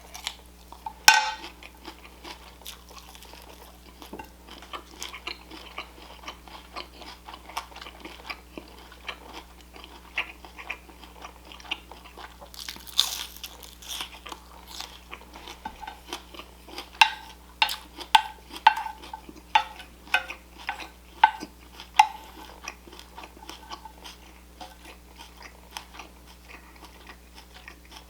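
Close-up eating sounds: a person biting, chewing and crunching food, with a sharp click about a second in and a run of crisp crunches, about two a second, later on.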